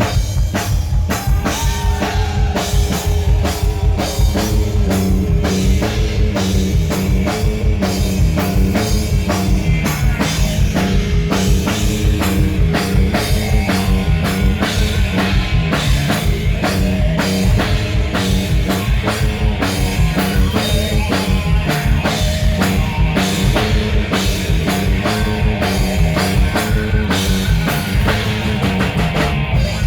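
Live rock band playing: a drum kit pounding a steady beat under a moving bass line and electric guitar, kicking in suddenly at the start.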